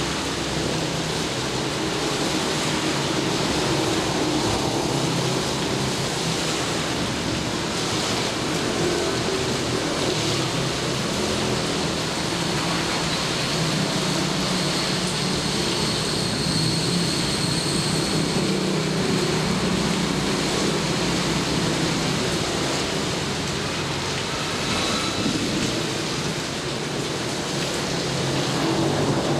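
Steady heavy rainfall with a low rumble of distant thunder underneath.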